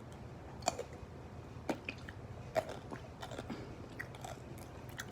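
A person chewing a mouthful of food, with wet smacking and clicking mouth sounds at irregular intervals.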